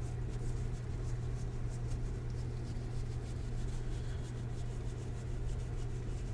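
Trading cards being slid and flipped through by hand, light rustling and ticking of card stock, over a steady low electrical hum.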